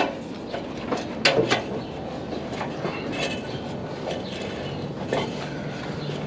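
A few sharp knocks and clatters on a wooden deck, a cluster about a second in and another near five seconds, over a steady low rumble.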